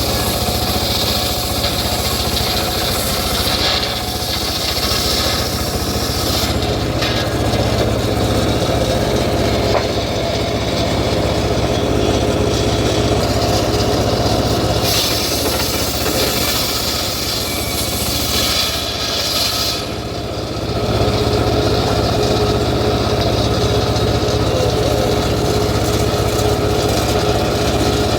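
Home-built engine-driven circular sawmill running steadily while it cuts teak timber. The cutting noise swells and fades as the wood is fed through, with a brief dip a little past two-thirds of the way in.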